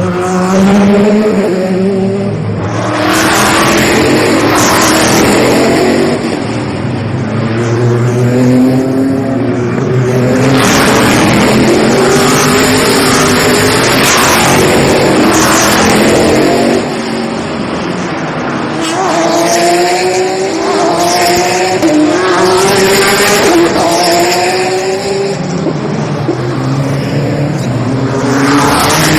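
Sports-car race cars running past on a street circuit, their engines revving and climbing in pitch through the gears again and again as several cars go by in succession.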